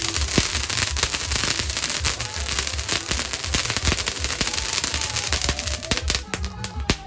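Firework crackling in a dense, fast stream of pops that thins to a few last cracks after about six seconds.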